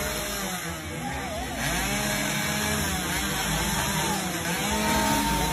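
Motorcycle engine revving, its pitch rising and falling again and again, with a brief lull about a second in.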